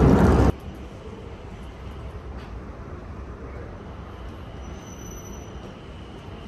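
A loud rushing noise cuts off abruptly about half a second in. It gives way to the steady rumble of a moving airport train car heard from inside, with a faint high whine near the middle and again near the end.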